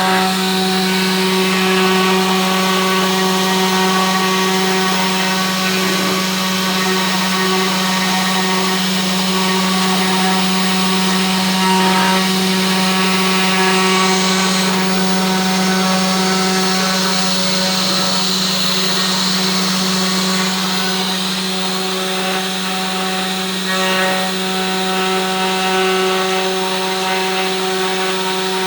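Homemade CNC router's spindle motor running at a steady high speed with a constant hum while a V-bit cuts, with cutting hiss over it throughout.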